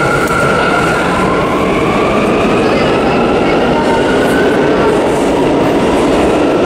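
New York City subway train running on the tracks: a loud, steady rumble and rattle with faint high whining tones that drift slightly in pitch.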